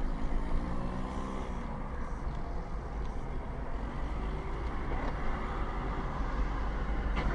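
Steady road and engine noise of a moving car, heard from inside the cabin through a dashcam microphone.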